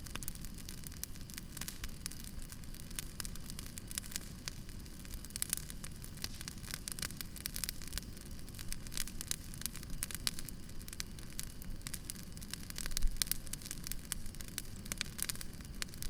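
Campfire crackling: dense, irregular pops and snaps over a steady low rumble of burning, with a brief low rumble about thirteen seconds in.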